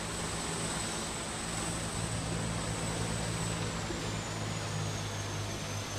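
Helicopter running: a steady engine and rotor noise with a low hum and a high thin whine that drops a little in pitch about four seconds in.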